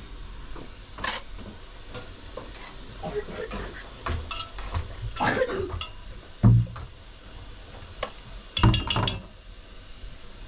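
Dishes, pots and cutlery knocking and clinking at irregular moments during kitchen work. A heavy thump comes about six and a half seconds in, and a quick run of clatters follows a couple of seconds later.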